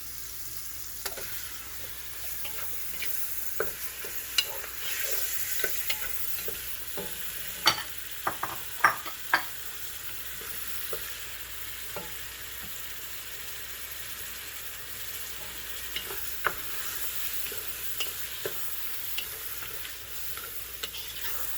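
Chicken pieces sizzling steadily in hot oil while a utensil stirs them, knocking and scraping against the pan now and then, with a cluster of sharper knocks about eight to nine seconds in.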